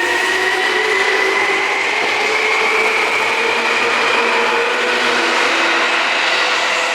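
Seibu 2000 series electric train with field-chopper control, its traction motors and gears whining in several tones that climb slowly in pitch as the train gathers speed.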